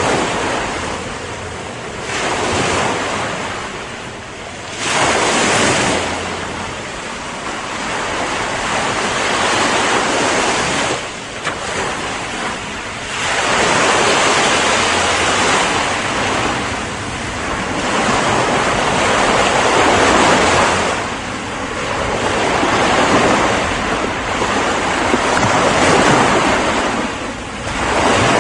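Ocean waves breaking and washing onto a shore in a continuous roar of surf that swells and eases every few seconds, with wind on the microphone.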